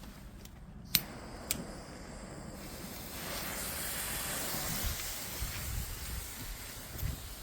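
Fireworks: two sharp cracks about half a second apart, then a steady hissing that builds for a few seconds and slowly fades.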